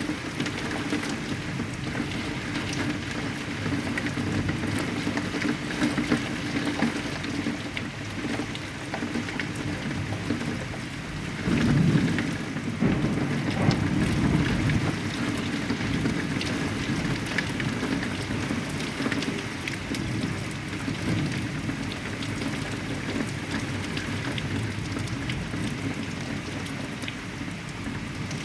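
Heavy rain falling steadily, with a low roll of thunder swelling up about halfway through and fading over a few seconds.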